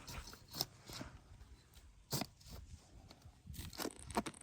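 Irregular crunching and scraping with a few sharp clicks, the loudest about two seconds in.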